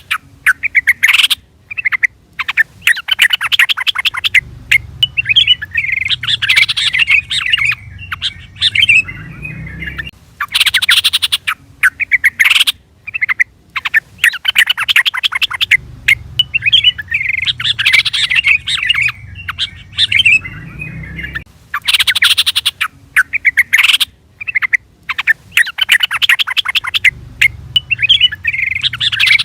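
Yellow-vented bulbul (trucukan) calling: loud bursts of quick chattering notes with short pauses between them. The same sequence comes round again about every ten seconds, as in a looped calling recording used to lure or train the bird.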